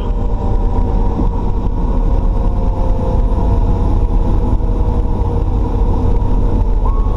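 Fire truck cab noise while driving: a steady, loud low rumble of engine and road. A faint siren tone slowly sinks in pitch underneath.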